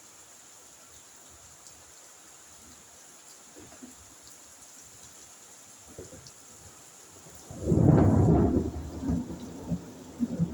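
Thunder during a rainstorm. A faint steady hiss of rain runs until a loud clap of thunder breaks in about three-quarters of the way through, then rumbles off in several smaller rolls.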